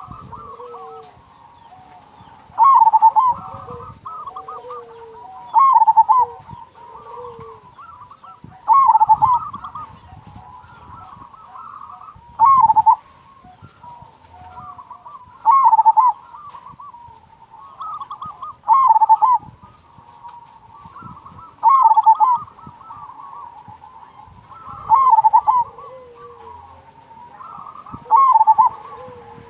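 Zebra dove (perkutut) singing: a loud, rolling cooing phrase repeated about every three seconds.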